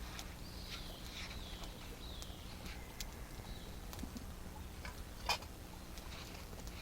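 A bird calling with curving, warbling high notes during the first three seconds, over scattered small clicks. One sharp crack about five seconds in.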